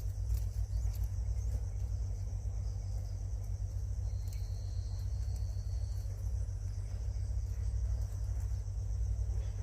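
Outdoor ambience of insects trilling continuously over a steady low rumble, with a thinner high insect-like tone joining in for a couple of seconds about four seconds in.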